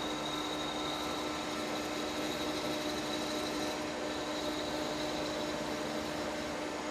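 Metal lathe running steadily, turning down a fixture's diameter, with a hum and a faint high whine.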